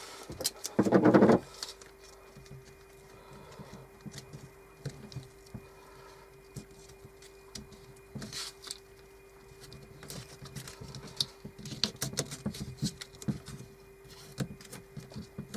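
Sticky tape pulled off the roll in one loud rip about a second in, then light clicks, taps and rustles of tape and wooden strips being handled.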